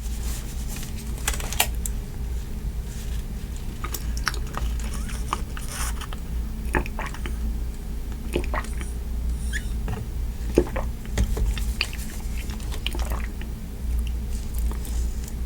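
A person eating close to the microphone: chewing with scattered small wet clicks and ticks, over a steady low hum.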